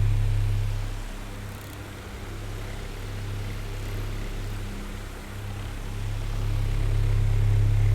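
Oscillating electric fan running: a low motor hum under the whir of airflow from the blades. It fades after about a second and swells back near the end as the fan head sweeps away and turns back.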